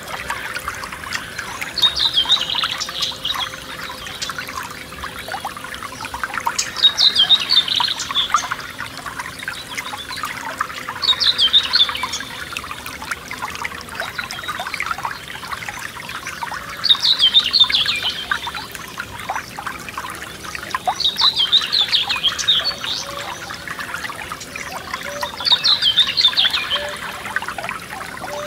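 Forest stream trickling and splashing steadily. A songbird sings a short phrase of quick high notes six times, about every four to five seconds.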